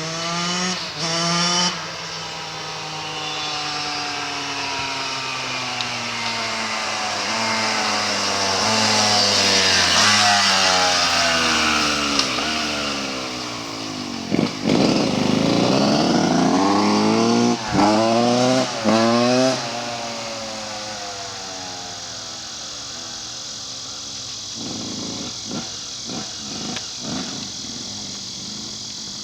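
2005 Yamaha YZ125's freshly rebuilt 125cc single-cylinder two-stroke engine running and revving, its pitch sliding down and up, with several quick sharp throttle blips about halfway through and a few smaller ones near the end.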